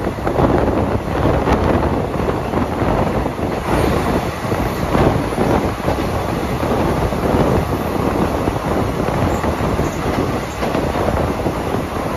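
Passenger train running along the track, heard from aboard a coach: a steady rumble of wheels on the rails with wind buffeting the microphone.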